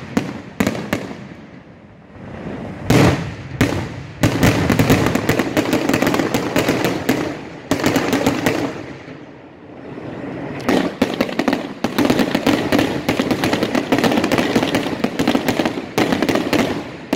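Aerial firework shells bursting in a finale barrage: sharp booming reports, then dense volleys of rapid crackling bangs. A lull about halfway through is followed by a second long volley.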